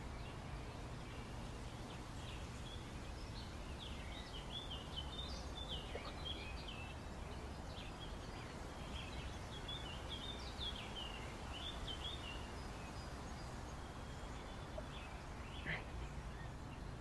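Small birds chirping in many quick short calls, busiest in the middle and thinning near the end, over a steady low outdoor rumble.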